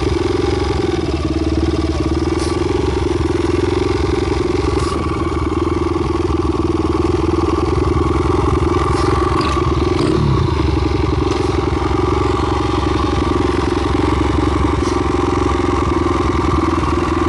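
Single-cylinder four-stroke engine of a Honda Monkey built up with a Takegawa 124cc long-stroke kit and four-valve Super Head, running steadily at idle through a one-off Yoshimura Cyclone up-muffler.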